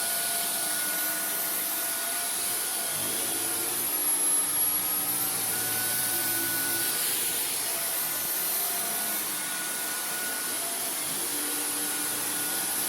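Dyson V15 Detect cordless stick vacuum running over carpet: a steady motor whine with suction noise, its pitch dipping about four seconds in and coming back up about two seconds later.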